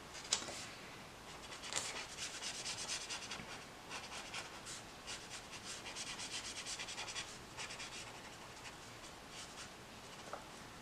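Tombow water-based marker stroking across book paper: a run of quick, short, scratchy strokes, several a second, thinning out after about seven seconds, as a base coat is laid down.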